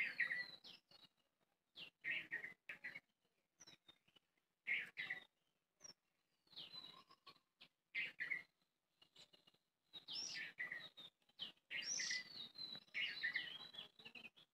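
Small birds chirping: short high calls, some sliding in pitch, coming every second or so with brief silences between, and more of them overlapping in the last few seconds.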